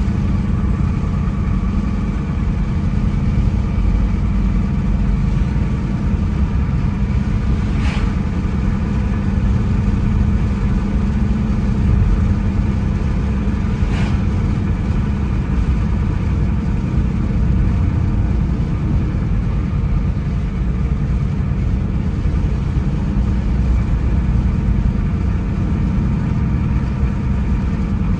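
Car driving along a road: a steady low engine and road rumble, with two brief sharp clicks about eight and fourteen seconds in.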